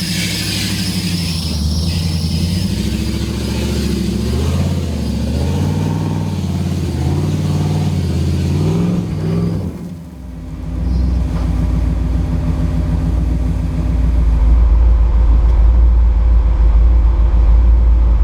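Nissan GQ Patrol off-road competition truck's engine revving up and down repeatedly under throttle. About ten seconds in the sound dips briefly, and a deep steady rumble follows.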